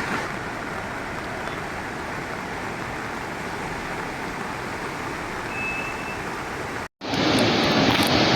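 Steady rush of the flooded Beas river. About seven seconds in, the sound drops out briefly and comes back louder and brighter.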